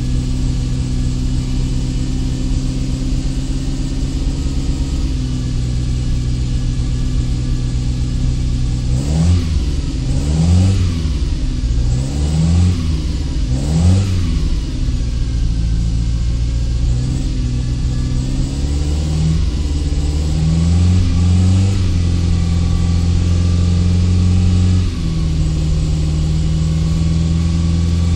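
A 308's engine idling, then revved in four quick blips about nine seconds in, each rising and falling in pitch. A few smaller rises in revs follow, and it settles back to a lower idle near the end.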